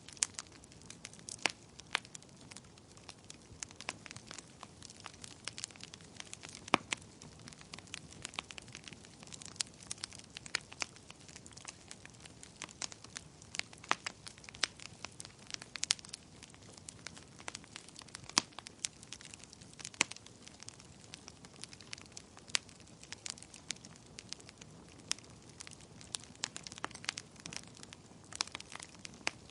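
Wood fire in a fireplace crackling: logs burning with frequent irregular sharp pops and snaps over a soft steady hiss.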